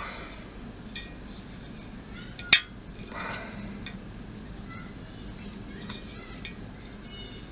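Small clicks and clinks of plastic and metal model-kit parts being handled and fitted together, with one sharp, loud click about two and a half seconds in followed by a short scraping rustle.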